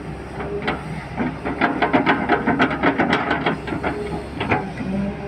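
Heavy machinery loading coal slurry onto a truck: a steady engine hum with a dense run of clattering knocks from about a second in until near the end.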